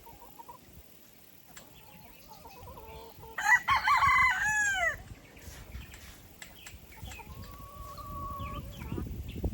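A rooster crowing once, loud, about three and a half seconds in and lasting about a second and a half, its pitch arching and falling at the end; a quieter, steady fowl call follows near the end.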